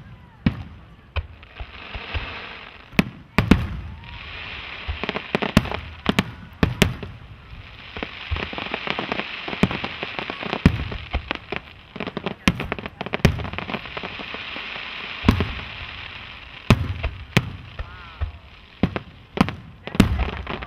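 Fireworks display: aerial shells bursting with sharp bangs in quick, irregular succession, over a continuous crackle from crackling and glittering effects.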